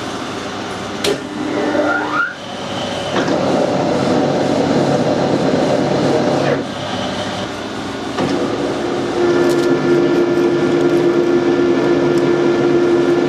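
Metal lathe running while its single-point tool cuts a coarse 4 TPI thread, taking a broad cut as the thread nears full depth. The machine sound steps up and down as the pass starts and stops, with a click and a short rising whine about a second in.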